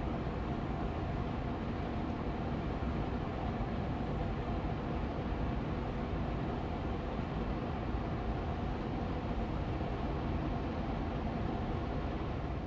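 Austin Air Allergy Machine air purifier fan running steadily on medium speed: an even, rushing hum weighted toward the low end, with a faint steady tone in it.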